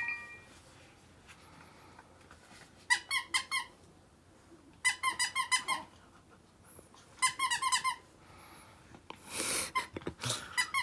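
Rubber squeaky dog toy squeezed in quick runs: three bursts of rapid, high-pitched squeaks, several squeaks in each burst. A short rustle comes near the end.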